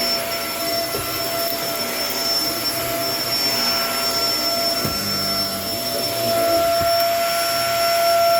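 Kenmore vacuum cleaner running with a steady high motor whine over rushing air, with a couple of brief knocks near the middle and getting a little louder past the six-second mark.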